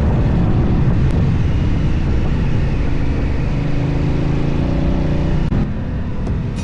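Adventure motorcycle engine running under way, its note rising steadily for a few seconds and then dropping suddenly about five and a half seconds in.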